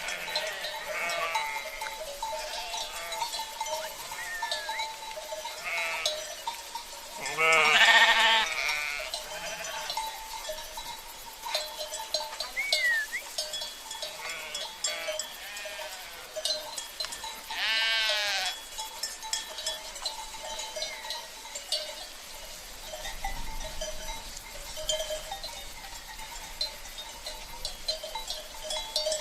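A flock of sheep bleating, with two long, loud bleats about eight and eighteen seconds in, over the continuous ringing of bells (cencerros) worn by the animals.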